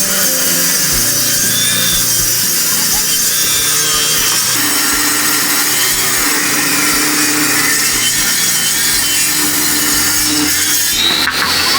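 Power tool cutting wood, a steady loud rasping noise. Near the end a higher whine rises and there are a few sharp knocks.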